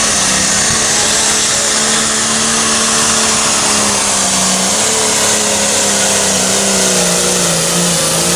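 Pulling tractor's engine running hard at high revs under load down the track, with a heavy rushing noise over it. The pitch holds steady, then drops slightly near the end.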